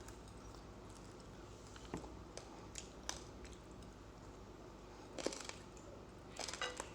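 Raw uncooked rice grains being chewed close to the microphone: scattered, faint, crisp crunches, with a quick cluster of them near the end.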